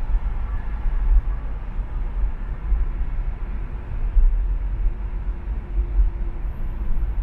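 Road and traffic noise from driving on a city expressway: a steady, heavy low rumble of engines and tyres.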